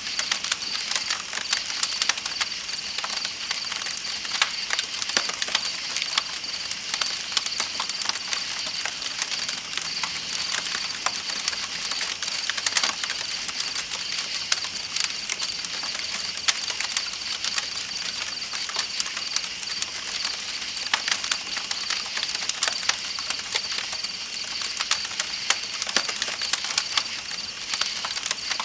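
Campfire crackling with frequent sharp pops, over the steady high trilling of night insects and the even rush of flowing river water.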